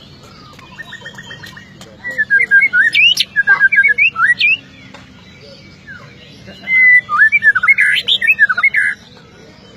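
Murai songbird singing two bursts of rapid, sharp whistled notes, the fast 'shots' of its song. The first comes about two seconds in, the second, louder and denser, about seven seconds in.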